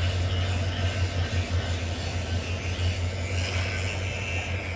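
EMD diesel-electric locomotive's engine running with a steady low hum.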